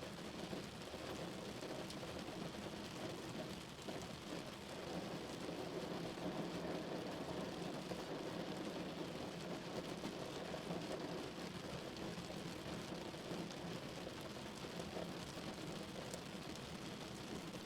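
Steady rain falling on a car's body, heard from inside the vehicle.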